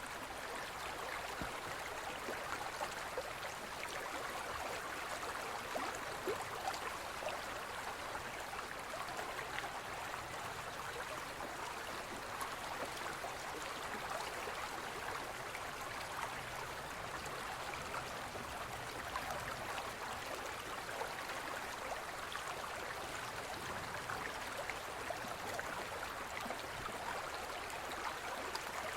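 Gentle forest stream flowing: a steady rush of water with many small splashes.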